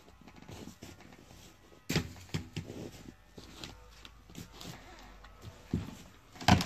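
Axe strikes into the trunk of a thick dead tree being felled: a sharp chop about two seconds in, lighter knocks and cracks of wood after it, and another hard chop near the end.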